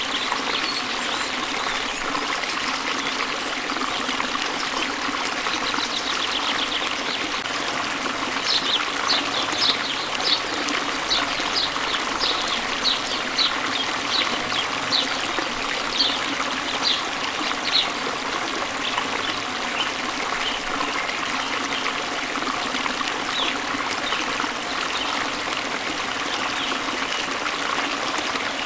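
A small stream trickling steadily, with a songbird giving a run of short, high notes about twice a second for roughly ten seconds, starting about a third of the way in.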